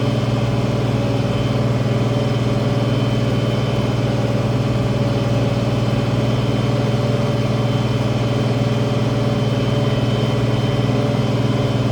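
International 1566 tractor's six-cylinder diesel engine running steadily at an even speed.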